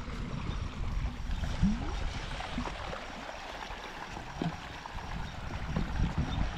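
Irrigation water running steadily, with a few short gurgles.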